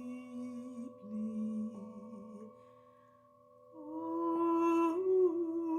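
A woman humming wordless, long held tones over a steady ringing drone. The voice fades low around the middle, then swells back louder about four seconds in and wavers near the end.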